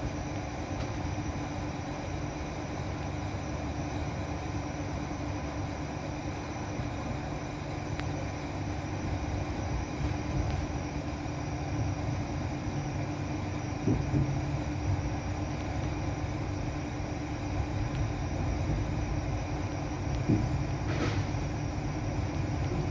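A passenger train running on the rails, heard from on board: a steady rumble with a constant hum. It grows a little louder near the end, with a few short knocks from the wheels and track.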